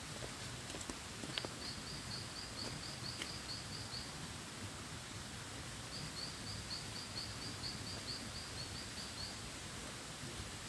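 A bird calls in two runs of quick, evenly spaced high chirps, about four a second, over a faint steady outdoor background. A couple of faint knocks are heard early in the first run.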